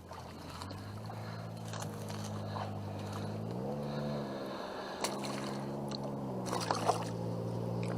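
Small kayak motor humming steadily, rising in pitch briefly around the middle and then settling back, with light splashing and handling noises near the end.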